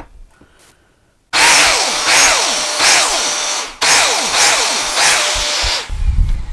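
Handheld power tool running in two bursts of about two and a half and two seconds, with a pitch that repeatedly sweeps downward as it works.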